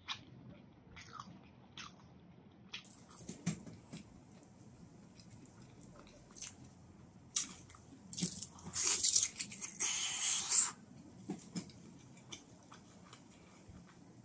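Close-miked chewing and biting of food, with scattered small wet mouth clicks. There is a louder, noisier stretch of chewing from about eight to ten and a half seconds in.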